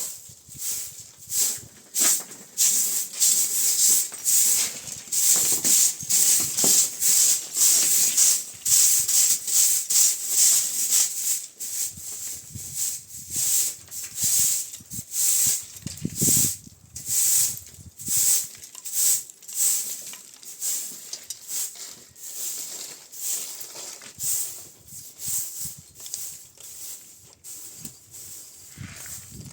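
Rhythmic scraping or brushing strokes, about two a second, loudest through the first half and quieter after.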